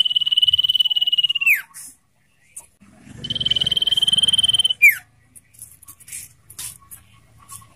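Common iora giving two long, rapidly pulsed trilled whistles at one steady high pitch. Each trill ends in a quick downward slur, the second starting about a second after the first ends. Short scattered chips follow in the last few seconds.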